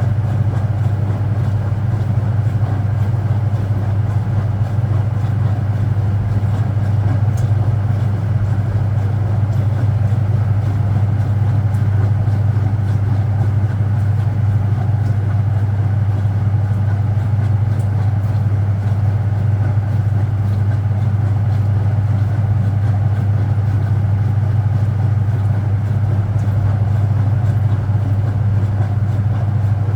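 Speed Queen top-loading washing machine running with a steady low hum.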